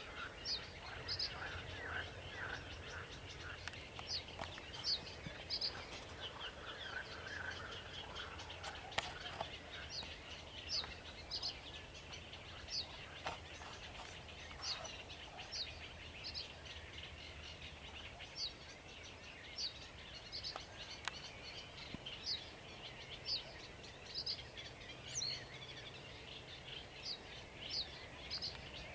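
Sedge warbler and another bird singing: a continuous run of varied chattering notes, with a short, sharp high note repeating about once a second.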